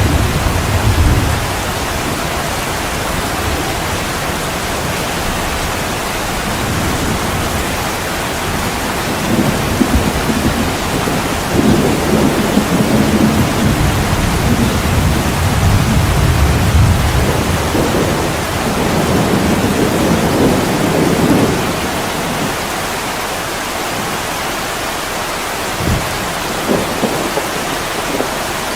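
Heavy rain falling steadily on a window, with thunder rolling in low rumbles for about ten seconds through the middle. A short low knock comes near the end.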